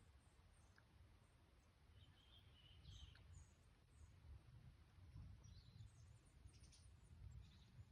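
Near silence of a forest, with a faint low rumble and a few faint, distant bird chirps.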